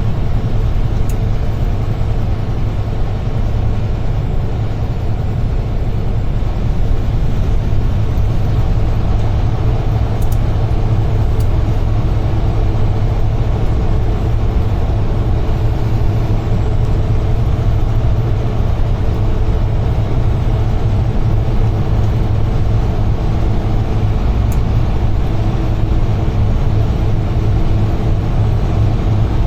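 UD Trucks Quon heavy truck under way, a steady low engine drone with road noise, heard from inside the cab.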